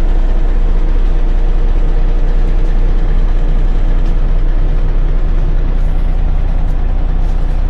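Semi truck's diesel engine idling steadily, a deep even rumble heard from inside the cab.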